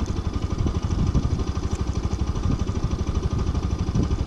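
Bajaj Pulsar RS200 single-cylinder motorcycle engine idling steadily, with an even, rapid pulse.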